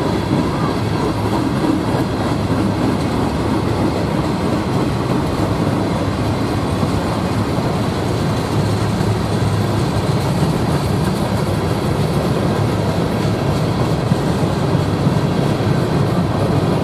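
A passing train, its railcars rolling steadily over the rails.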